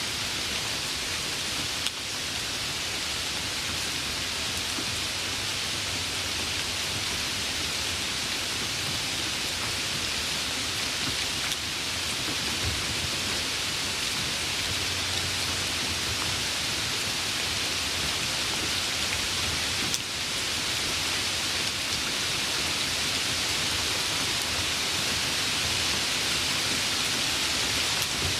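Steady, dense rainfall hissing, with no distinct drops or pauses; it grows slightly louder over the stretch.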